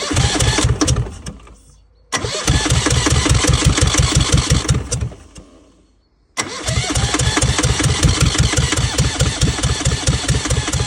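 Yanmar 2GM two-cylinder marine diesel being cranked by its starter in three bursts, chugging evenly with each compression stroke. It does not catch. The engine has sat unused for about ten years.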